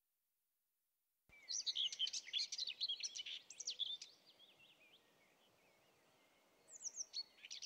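Small birds chirping and twittering: quick, high chirps starting after about a second of silence, a lull, then a few more chirps near the end.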